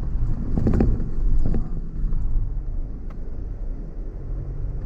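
A car engine running steadily as the car drives through a large puddle on a dirt track. Water splashes against the car twice, the bigger surge about half a second in and a smaller one at about one and a half seconds.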